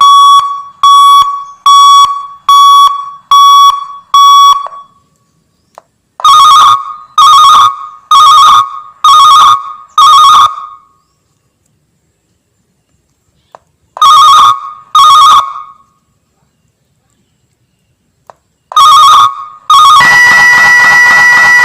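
Electronic three-tone alarm being sounded in its different modes. First comes a run of six short, even beeps about a second apart. Then come groups of longer ringing bell-like tones with pauses between them. About 20 seconds in, a continuous warbling alarm tone starts.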